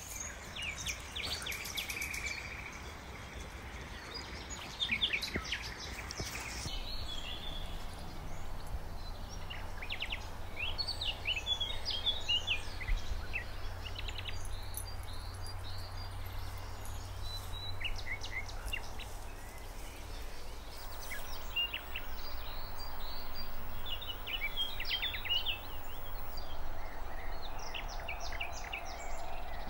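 Several small birds chirping and singing in short scattered phrases, over a steady low rumble.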